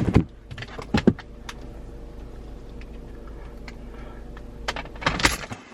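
Clicks and knocks from a phone and charging cable being handled and plugged in: a sharp knock at the start, another about a second in, and a cluster of clicks near the end, over a steady low hum.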